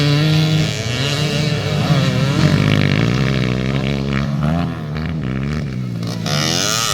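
Motocross dirt bike engines revving up and down as the bikes race, more than one engine at once, the pitch rising and falling with throttle and gear changes.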